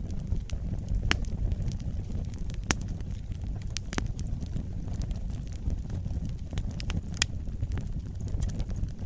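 Wood fire burning in a fireplace: a steady low rumble of flames with irregular sharp crackles and pops, the loudest about a second, three, four and seven seconds in.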